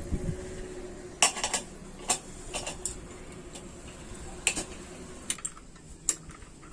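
About eight sharp, irregularly spaced metallic clicks and taps, over a faint steady hum.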